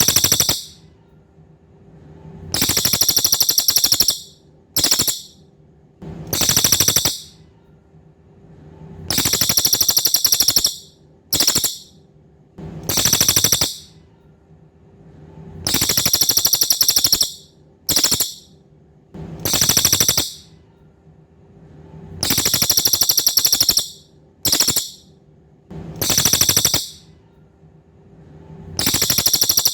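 A cililin bird singing: loud, high-pitched rapid trills repeated every couple of seconds, longer trills of about a second and a half alternating with short clipped ones. A faint steady hum runs underneath.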